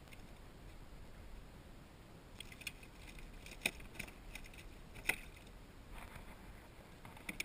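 Metal fishing tackle clicking and rattling in short, sharp bursts over a low steady hiss, the loudest clacks about three and a half and five seconds in, as a freshly hooked Spanish mackerel is brought to the kayak.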